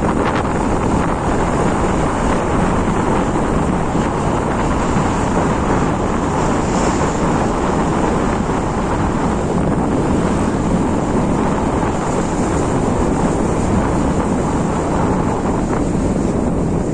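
Steady wind rushing over the microphone of a moving motorcycle, with road and vehicle noise underneath.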